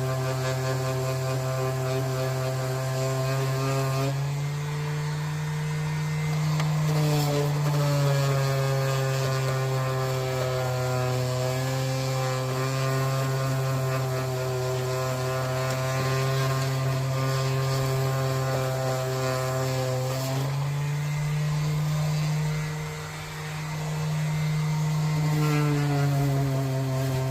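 A power tool's motor running continuously, its pitch shifting up and down a few times as the load on it changes.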